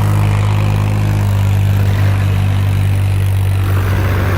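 Swaraj 963 FE tractor's three-cylinder diesel engine running at a steady speed, a loud, even low drone with no change in pitch.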